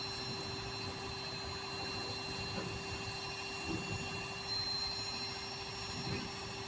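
Vehicle engine idling steadily with a constant whine over it, the tow truck standing by at the recovery.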